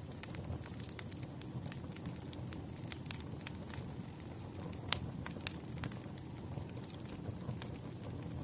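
Wood fire burning: a steady low rumble with irregular sharp crackles and pops, the loudest pop about five seconds in.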